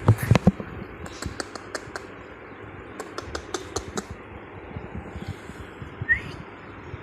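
Runs of quick, light clicks and taps, with a few heavier knocks at the start. About six seconds in comes one short rising budgerigar chirp.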